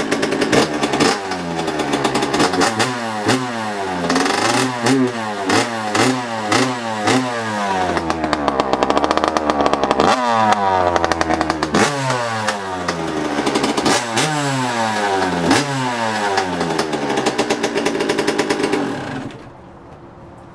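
Suzuki RM85's 85cc single-cylinder two-stroke engine, fitted with an FMF expansion chamber and a stock silencer, running just after a cold start. It is blipped repeatedly, its pitch rising and falling every second or two, and it cuts out near the end.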